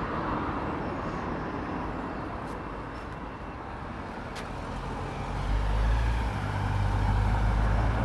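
Road traffic passing: tyre and engine noise that fades over the first few seconds, then a deep, low rumble that swells about five and a half seconds in.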